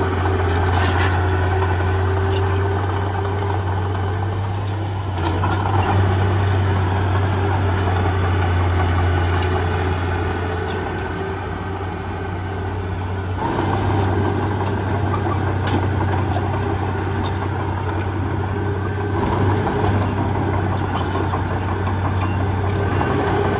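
Heavy diesel engine of earthmoving machinery running steadily, its sound shifting a few times as the load changes, with scattered faint clicks over it.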